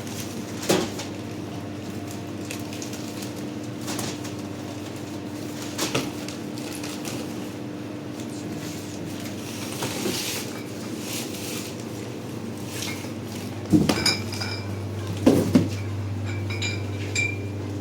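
Dishes and utensils clinking and knocking as they are handled and set down. Several louder ringing clinks come together near the end, over a steady low hum.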